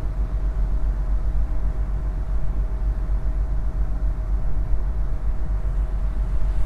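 Steady low rumble of a vessel or vehicle underway, with a constant faint hum over it.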